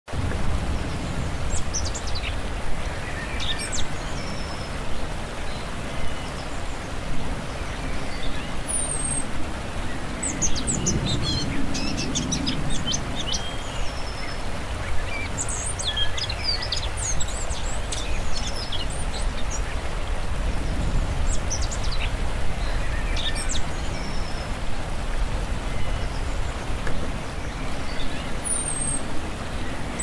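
Birds chirping and calling in short, scattered phrases over a steady low rumble, which swells briefly about a third of the way in.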